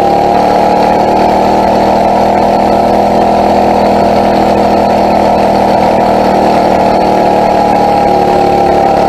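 Phatmoto motorized bicycle's small four-stroke engine running loud and steady, its pitch holding nearly level with a slight easing near the end.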